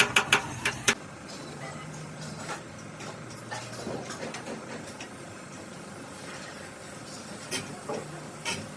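A quick run of sharp knocks, about seven a second, stops about a second in. A low steady hum follows, with a few single knocks near the end.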